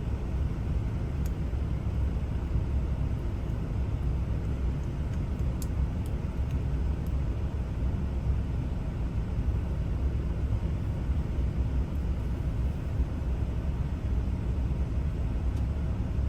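Steady low rumble with a few faint light clicks, the clicks from the small parts of an ignition lock cylinder being handled.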